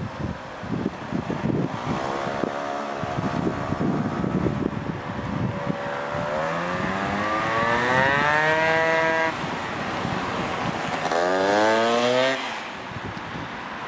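Gilera DNA50 moped's 50 cc two-stroke single running rough and uneven at first, then revved up with a rising pitch about six seconds in and dropping back about three seconds later. It revs up again briefly near the end and falls back to a lower, steadier note.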